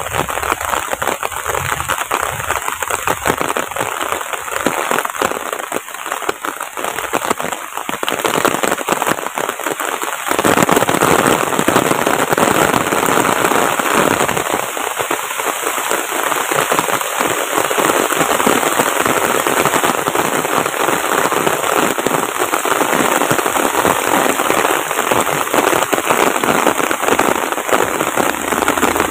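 Steady rain, the drops landing close by as a dense crackle; it gets louder and fuller about ten seconds in.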